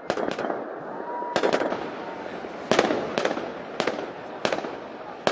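Sharp gunpowder bangs going off one after another at uneven gaps, about eight in five seconds, over a steady background din.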